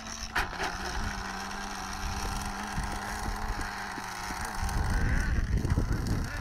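Small nitro engines of radio-controlled trucks buzzing at a steady high pitch, with gusts of wind rumbling on the microphone, stronger in the second half.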